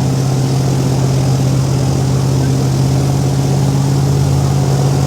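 A boat's engine running steadily at a constant pitch, with the boat heavily loaded with people.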